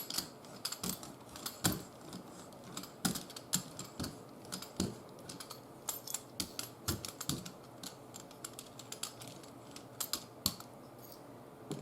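Irregular small clicks and taps of craft supplies being handled on a worktable: plastic paint bottles and tools picked up and set down.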